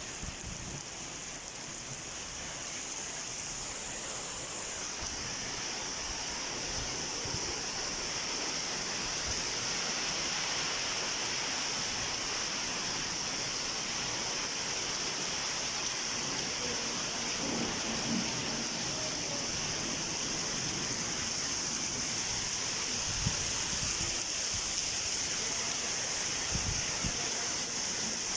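Heavy rain pouring down, a steady hiss that grows slightly louder over the first several seconds.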